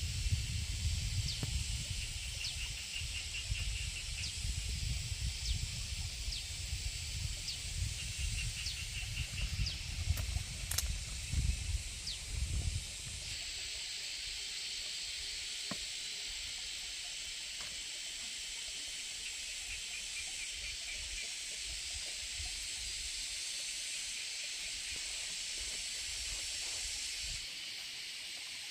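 Steady hiss of rain. For the first half a low rumble of wind on the microphone lies under it, stopping suddenly about halfway through. A few short high trills and chirps sound now and then.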